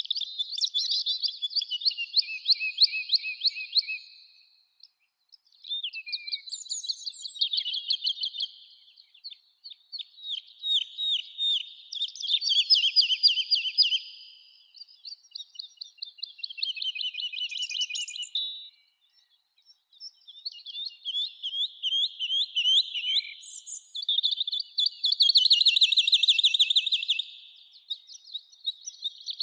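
Songbird singing: high, quick phrases of rapid-fire notes and trills, each a few seconds long, repeated about seven times with short pauses between.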